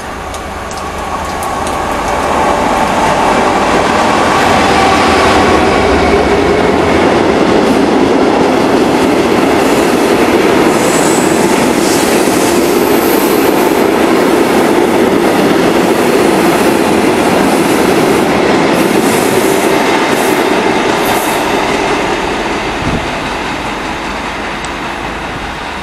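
A diesel-hauled freight train of hopper wagons passing close by: the sound builds over the first few seconds as the locomotive arrives, then holds as a steady clatter of wagon wheels on the rails, with a couple of brief high squeals around the middle, and fades near the end as the train moves away.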